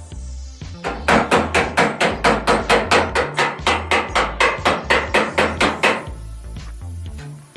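A hammer striking metal, about five quick, even blows a second for some five seconds, over electronic background music with a steady bass line.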